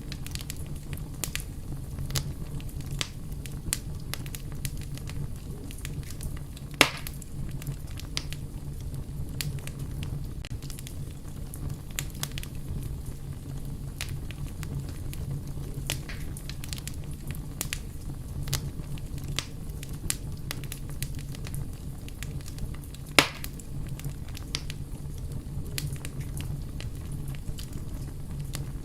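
Wood fire crackling: scattered snaps and ticks over a steady low rumble, with two sharp, louder pops, one about seven seconds in and one about twenty-three seconds in.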